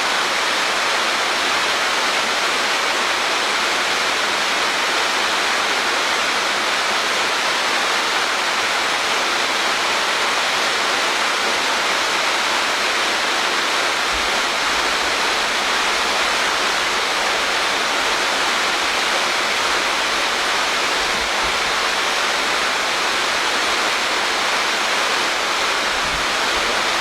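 Waterfall pouring steadily: a loud, even rush of falling water in a gorge.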